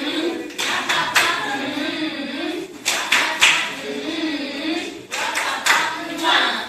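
A group of young children singing together, with hand claps falling here and there through the song.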